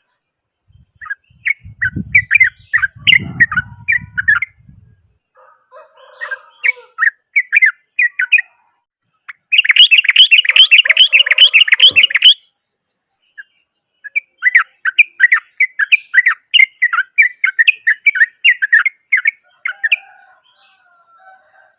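Yellow-vented bulbul (trucukan) singing a harsh, rapid chattering song in several runs, the densest and loudest about ten seconds in. A low rumble sits under the first run.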